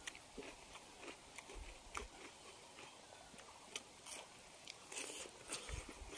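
Faint close-miked chewing and eating sounds of people eating rice and pork by hand, with scattered short clicks at irregular times.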